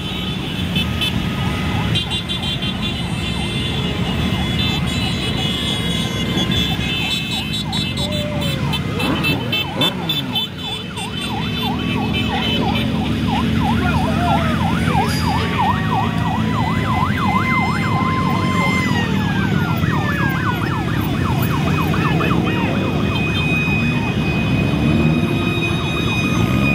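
Sirens over the steady rumble of a mass of motorcycle engines. Partway through, a fast up-and-down yelping siren comes in, holds a high note, then winds down.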